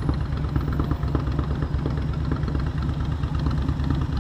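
Motorcycle engine running steadily at low revs, a constant low hum with no change in pitch.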